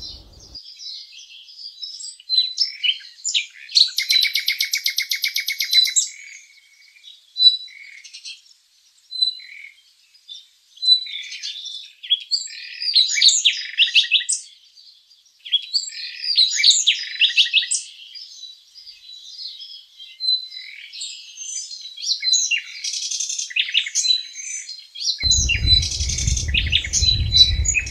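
Small songbirds chirping and twittering, many short high calls overlapping, with a fast buzzy trill about four seconds in. A low rumble joins near the end.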